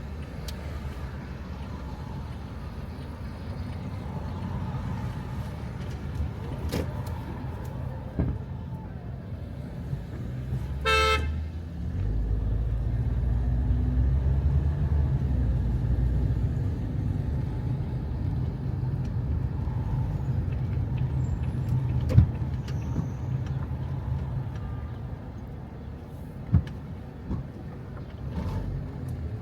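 Road traffic with a steady low car engine rumble and a short car horn honk about eleven seconds in. The rumble grows louder just after the honk, then eases off.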